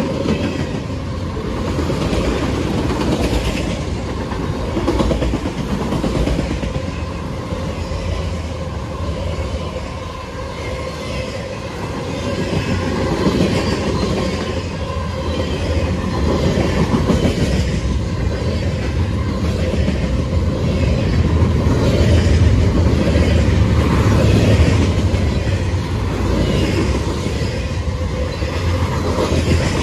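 Freight cars of a CSX mixed-manifest train rolling past, a continuous rumble with the clatter of steel wheels on the rails, steady in level throughout.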